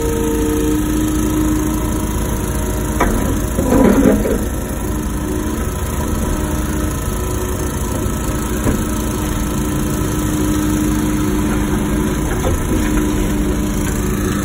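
Wacker Neuson ET145 excavator's diesel engine running steadily with a hydraulic whine that comes and goes. A sharp knock about three seconds in is followed by a louder clatter just before four seconds.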